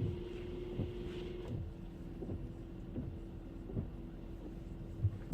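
Hyundai Kona's 1.6 T-GDI turbocharged four-cylinder petrol engine idling steadily on a cold start, in its raised warm-up idle after the first start of the day. A steady hum with soft low thumps about once a second.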